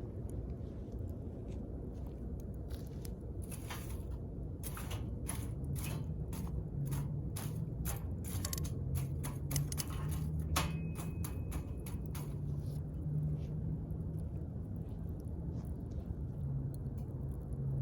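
Wood campfire crackling, with a dense run of sharp pops and snaps through the middle that thins out toward the end, over a steady low rumble of the flames. A low steady drone sits underneath from about a third of the way in.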